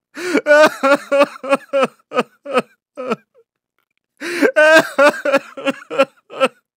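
A person laughing in two long bouts of short, even "ha" bursts, about three a second, with a pause of about a second in the middle.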